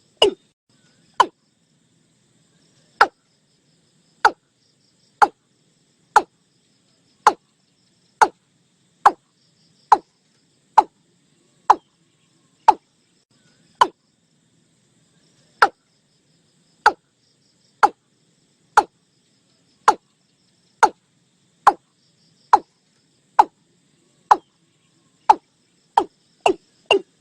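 Watercock (Gallicrex cinerea) calling: a long series of short notes, each falling in pitch, spaced about one a second, quickening into a fast run of about three a second near the end.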